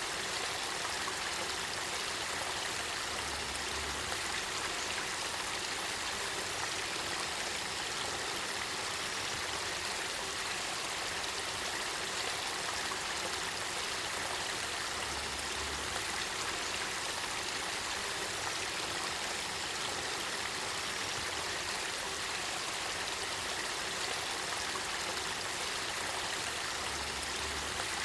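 Spring-fed river water flowing steadily, an even rush of running water.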